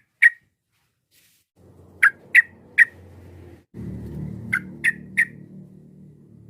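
Yellow-vented bulbul (trucukan) calling in short, sharp three-note phrases, twice, with the notes a little under half a second apart. A faint low rumble lies underneath from about a second and a half in.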